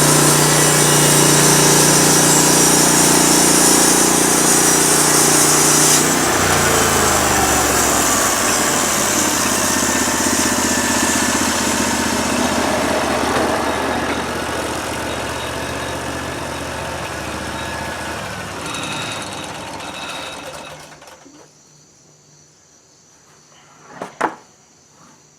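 Portable band sawmill's gas engine running steadily. About six seconds in, its pitch drops sharply as it is throttled down, and the sound then winds down and fades away over the next fifteen seconds. Two sharp knocks come near the end.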